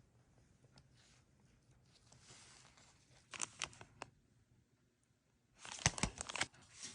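Clicks, scrapes and rustling as a plastic refillable gas lighter is handled and worked apart by hand, with two clusters of sharp clicks and knocks, the louder one near the end.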